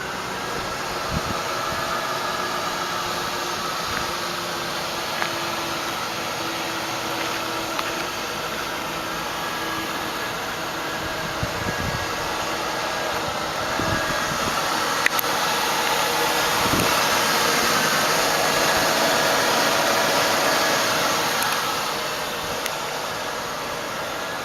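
A Lincoln Town Car's 4.6-litre V8 idling steadily with a hissing undertone. It grows louder for a few seconds past the middle.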